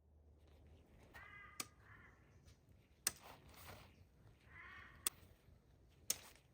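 Faint bird calls, three short ones, with four sharp clicks spread between them.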